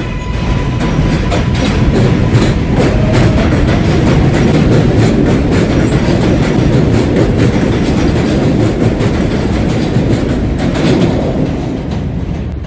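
A New York City subway train passes close by at speed, its wheels clacking over the rail joints in quick, uneven clicks over a loud rumble. The rumble eases near the end.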